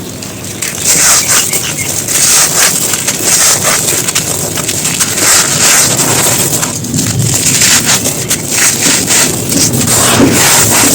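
Chunks of dry floor material being crumbled and crushed: a dense, unbroken run of irregular crunches and crackles.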